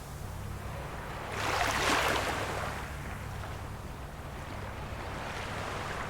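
Small waves washing onto the shore of a calm sea, one wave breaking and hissing about a second and a half in, then a softer wash.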